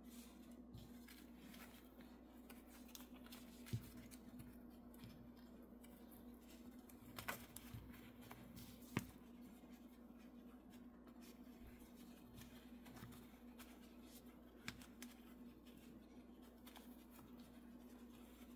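Near silence: a steady low hum with a few faint, scattered clicks and rustles of handling.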